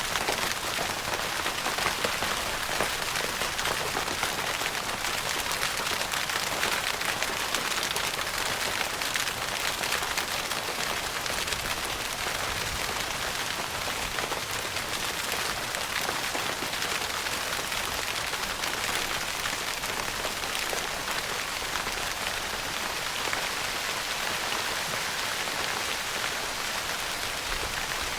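Steady rain pattering on a tent's fabric roof, a dense hiss of countless small drop ticks.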